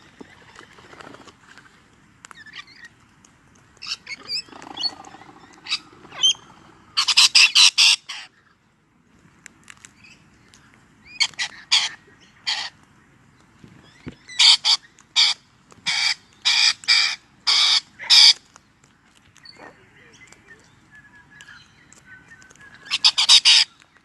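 Parrot squawking: loud, harsh calls in quick runs of several strokes, repeated in four bouts with quieter stretches between.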